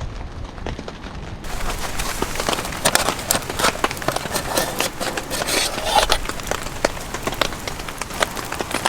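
Rain falling, a dense stream of irregular drop hits on a nearby surface.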